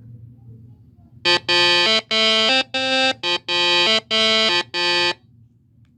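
A short electronic melody of about eight buzzy, sustained tones at a few different pitches, starting about a second in and stopping about a second before the end, over a low steady hum.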